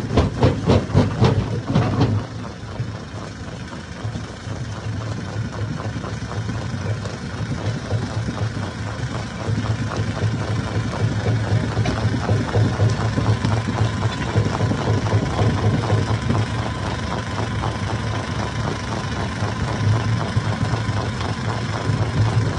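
Hammer stone crusher running: dense clattering of rock being broken for about the first two seconds, then a steady low mechanical drone.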